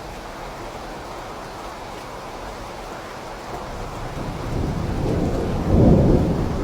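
Steady rain falling, with a low roll of thunder building from about four seconds in and swelling loudest near the end.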